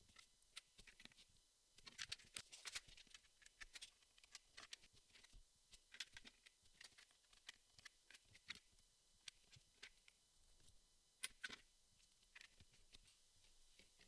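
Jigsaw puzzle pieces being handled and set down: quiet, irregular little clicks and taps, coming in small clusters.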